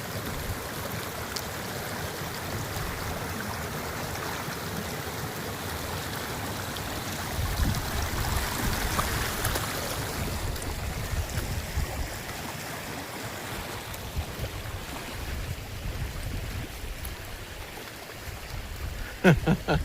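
Steady rush of moving water with a low wind rumble on the microphone.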